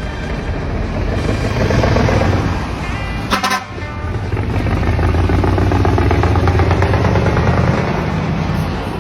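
Dekotora truck's dual-muffler exhaust running loud and deep, with its engine note swelling and easing. About three and a half seconds in there is a short high-pitched toot.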